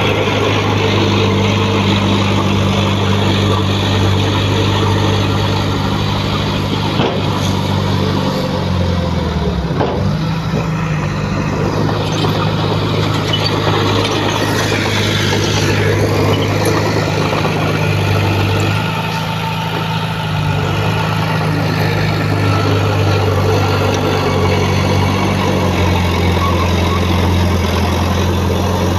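Diesel engine of heavy earthmoving equipment running steadily, its pitch sagging briefly about ten seconds in and then picking back up.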